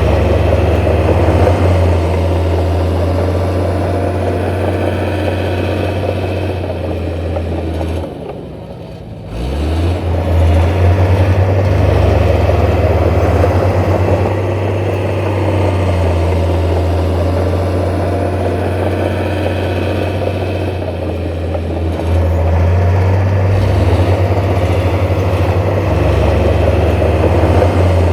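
Heavy diesel engine of earthmoving machinery running at a steady, loud pitch. It drops off briefly about eight seconds in, then picks back up and keeps running.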